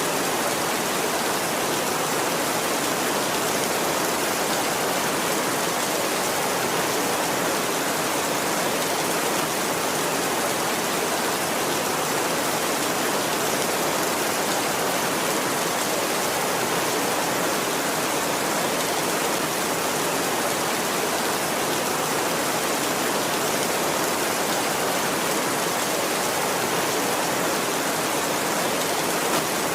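Steady heavy rain, an even hiss with no thunder or other sudden sounds.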